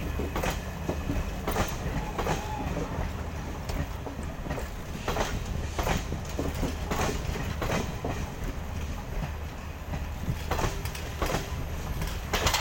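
Passenger train coaches rolling past at low speed, a steady rumble with sharp wheel clacks over the rail joints, often coming in pairs.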